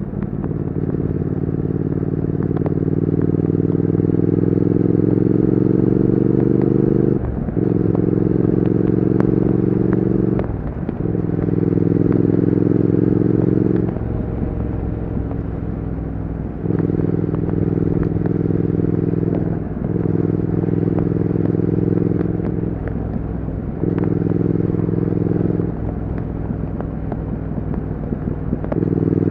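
Triumph Speed Twin 1200's 1200 cc parallel-twin engine and exhaust under way. It pulls with rising pitch for several seconds, then the note breaks and drops several times as the throttle is eased and gears change.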